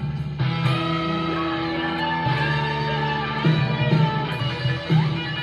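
Electric guitar playing a rock riff: held chords at first, then short chord stabs about half a second apart from a little past halfway.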